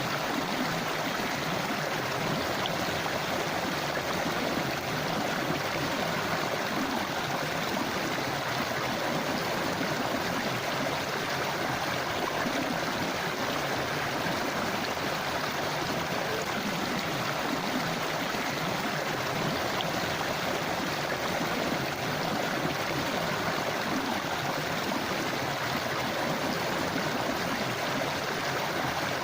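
A forest river or stream rushing and gurgling steadily over rocks, an even unbroken wash of water noise.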